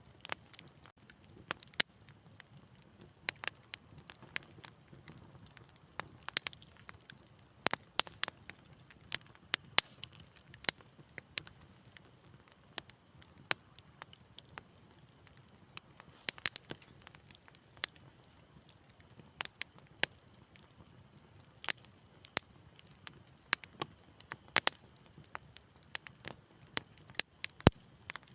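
Wood fire in a fireplace crackling, with frequent sharp, irregular pops and snaps over a faint low rumble of the flames.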